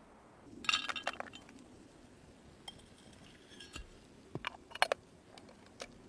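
Light clinks and knocks of cookware and utensils being handled: a cluster of clinks about a second in, then a few more sharp clinks in the second half.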